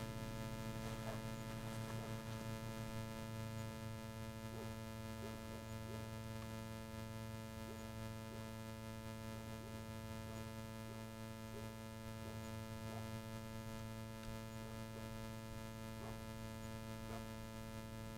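Faint, steady electrical hum with many overtones and a few light ticks.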